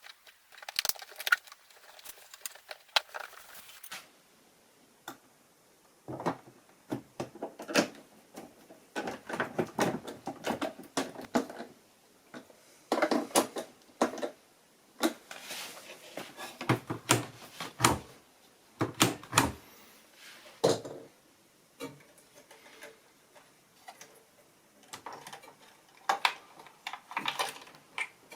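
Irregular clicks, taps and knocks of washing-machine parts being handled and fitted back together during reassembly.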